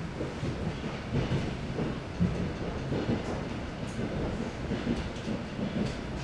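Wheels of an ED9M electric multiple unit clattering over rail joints under a steady rumble of the moving train, heard from inside the carriage, with knocks coming at uneven spacing.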